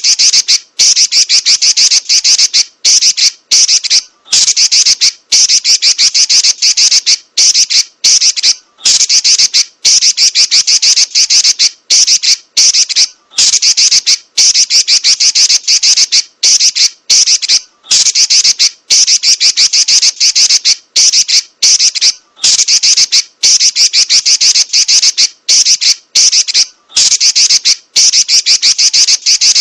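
Female Pekin robin (red-billed leiothrix) giving shrill, rapid chattering in rolling bursts, broken by short pauses about every second or so.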